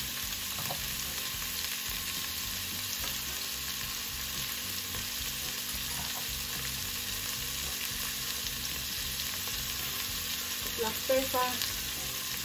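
Chopped onions, potatoes and capsicum sizzling steadily in hot oil in a stainless steel pot.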